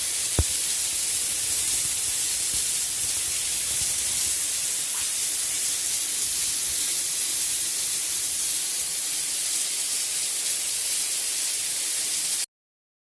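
A loud, steady, even hiss, strongest in the high range. It cuts off suddenly about half a second before the end.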